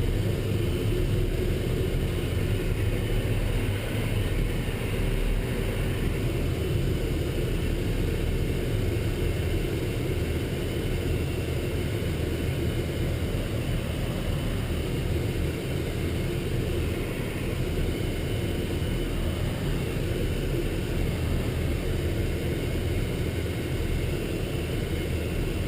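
Steady rumble of a military truck's engine and road noise, heard from inside the moving vehicle.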